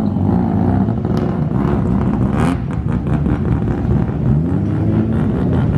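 Drift car engines revving hard, their pitch swinging up and down. A short burst of noise comes about two and a half seconds in.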